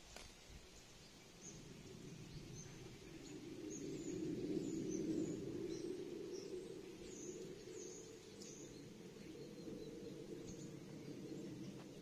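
Small birds giving short, high chirps in scattered ones and twos, over a low background rumble that swells a few seconds in and then eases off.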